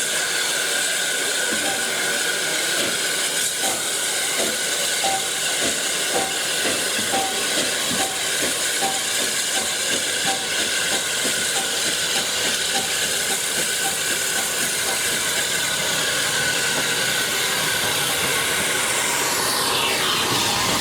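Heritage train running with a steady loud hiss and a run of faint regular clicks, like wheels over rail joints, through the middle. Near the end a sound sweeps down and back up in pitch.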